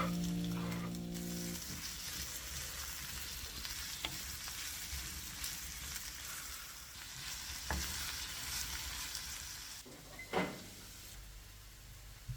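Food sizzling in a frying pan while it is stirred, with a utensil clicking against the pan a few times. Background music notes end about two seconds in.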